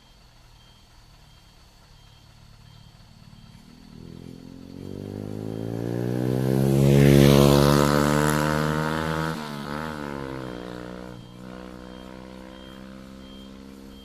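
A motor vehicle's engine approaches and drives past. It grows loud, peaks about halfway through and fades over the following seconds, with an engine still running more quietly afterward. A faint short electronic beep repeats about every half second in the quieter stretches at the start and near the end.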